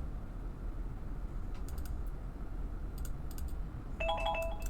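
Sparse computer keyboard and mouse clicks in small clusters. A short electronic chime with several tones comes in near the end.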